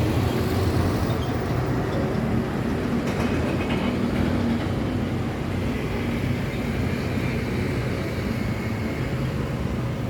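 Road traffic: heavy vehicles' engines running in a steady low rumble as they pass.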